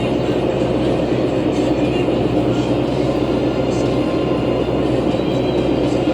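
Steady drone heard from inside a 2011 New Flyer C40LF compressed-natural-gas city bus while it is moving: engine, cooling fan and road noise with a low, even hum and no separate knocks or changes.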